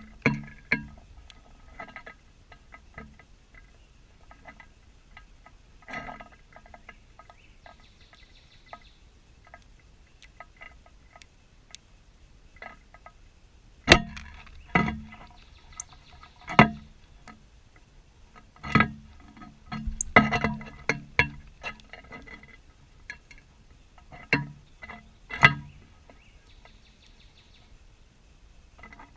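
Irregular sharp taps and knocks, each with a brief ringing, sparse at first and then coming in quick clusters through the middle and again near the end.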